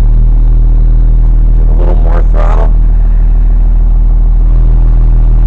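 International DTA360 inline-six turbo diesel in a 1993 Blue Bird bus running steadily at an even speed, warming up after a cold start without glow plugs.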